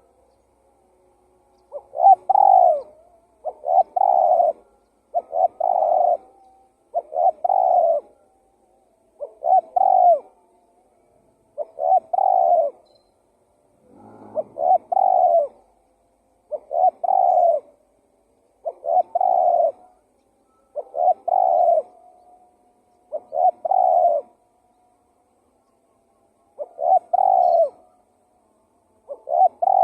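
Spotted dove (tekukur) cooing: short coo phrases repeated about every two seconds, starting about two seconds in, over a dozen in all.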